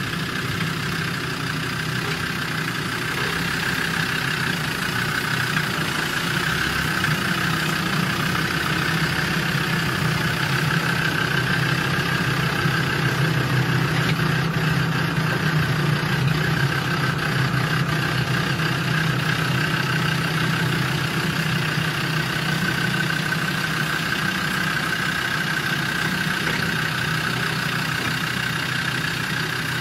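Land Rover Defender 110's engine running steadily at low revs as the truck crawls slowly over snowy ground, a little louder around the middle.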